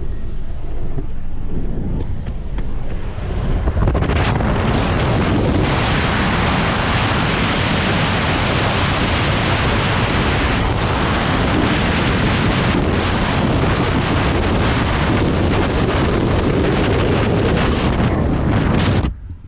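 Tropical storm wind gusting across the microphone as a heavy low rumble, then from about four seconds in a loud, steady rushing hiss of storm noise that cuts off suddenly near the end.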